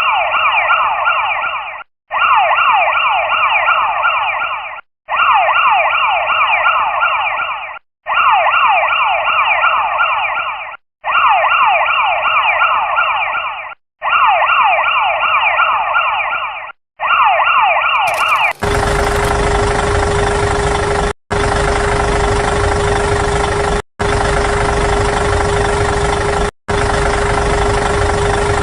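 Electronic siren made of rapid, repeated falling sweeps, played in stretches of about three seconds with brief breaks. About two-thirds of the way through it changes suddenly to a steady engine-like rumble with a constant hum, which also repeats with short breaks.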